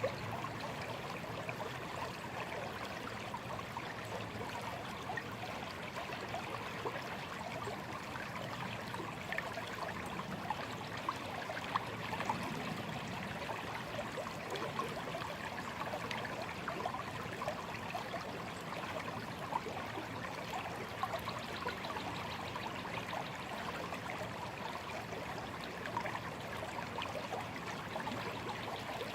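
Shallow stream babbling and trickling steadily over rocks, with a continuous splashy rush.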